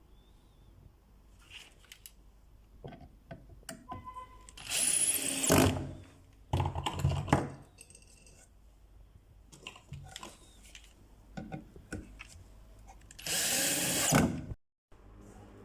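Power drill running in three short runs of about a second each, driving fasteners into scrap wood boards, with small knocks and clicks of handling between the runs.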